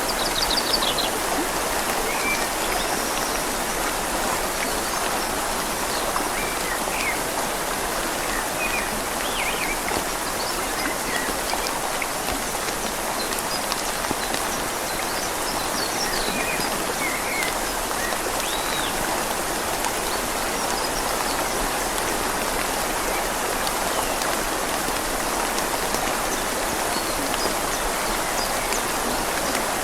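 Steady rain falling on leaves over a flowing river, an even hiss of water. Occasional short, faint bird chirps sound above it.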